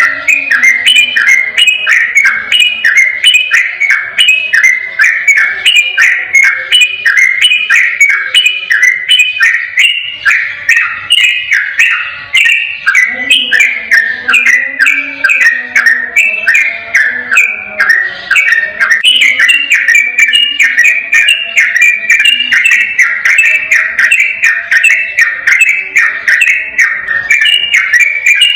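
Sooty-headed bulbul (trucukan) singing a long, unbroken run of rapid, clear whistled phrases, one after another without a pause.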